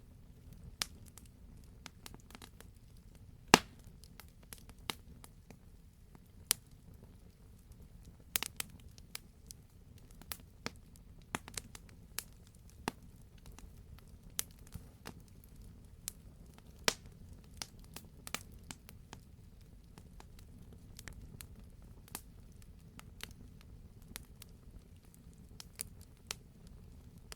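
Wood fire burning in a fireplace, crackling with scattered sharp pops at irregular intervals, the loudest about three and a half seconds in, over a low steady rumble.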